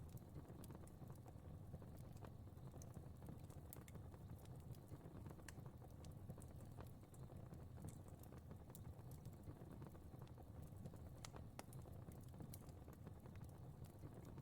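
Fire in a fireplace burning quietly: a low steady rumble with sparse, irregular crackles and pops.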